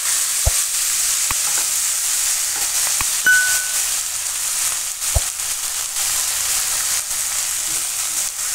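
Chopped green onions sizzling in hot oil with mustard seeds and cumin in a non-stick kadai, stirred with a spatula that knocks against the pan a few times. A short ding sounds about three seconds in.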